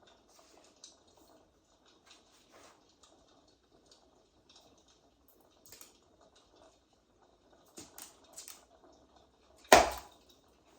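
A pet rabbit thumping, one sharp loud thud near the end, over faint scattered crackling ticks.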